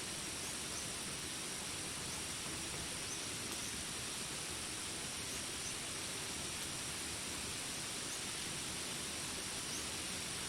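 Jungle ambience: a steady high insect drone over a soft even hiss, with faint short chirps every second or so.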